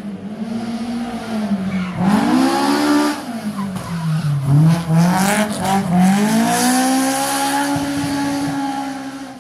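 Datsun 1200 rally car's swapped Honda F20C four-cylinder engine at high revs, its pitch climbing and dropping several times as it accelerates and lifts off.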